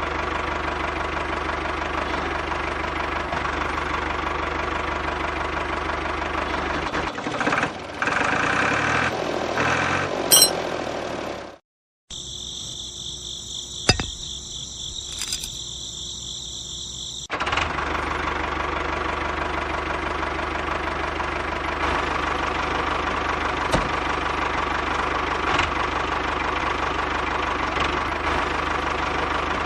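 Small engine running with a steady, rapid knocking beat. Partway through it changes and cuts out briefly, and a different whirring sound with high steady tones takes its place for a few seconds before the engine sound returns.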